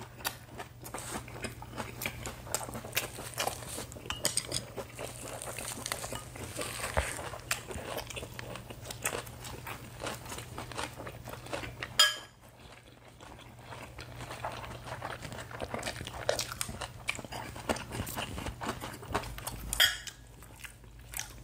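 Close-miked chewing and crunching of lettuce-wrapped spicy pork, with frequent small clicks of chopsticks and spoons on dishes and one sharp clack about twelve seconds in, over a faint steady low hum.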